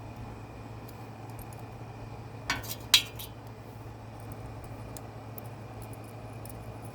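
Two light metallic clinks of small metal parts being handled, about half a second apart, over a steady low hum.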